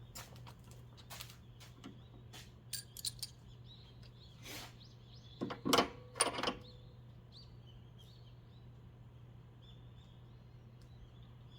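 Metal hand tools and parts being handled: scattered light clicks, then a louder cluster of ringing metallic clinks around the middle, over a steady low hum.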